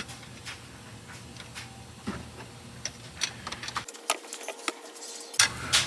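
Irregular light metallic clicks and taps of hand tools working at the oil pan's stripped drain plug, more frequent in the second half, with two louder clicks near the end.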